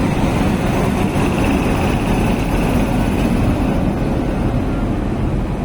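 Train running, a loud steady rumble with a faint thin tone above it for a couple of seconds.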